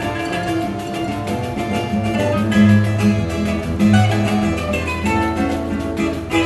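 Choro ensemble playing instrumental music, led by plucked string instruments such as guitar, over a moving bass line.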